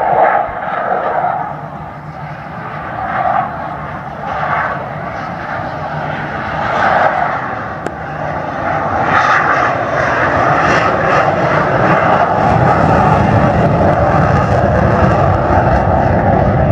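Jet aircraft flying past at an airshow. Its engine noise is uneven at first, then builds over the second half into a loud, steady rush.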